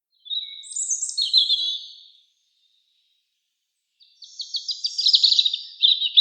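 A songbird singing two phrases of rapid, high-pitched trilled notes, the second starting about four seconds in after a short pause.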